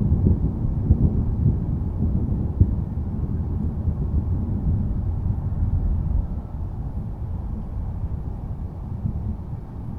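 Low rolling thunder rumbling steadily, easing off a little about six seconds in.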